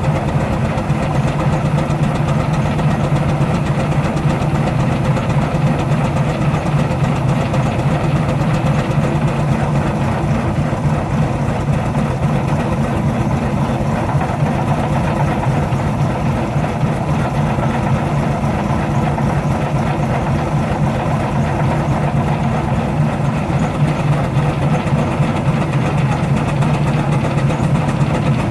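Baker steam traction engine running steadily under load on a prony brake, with a rapid, even beat throughout.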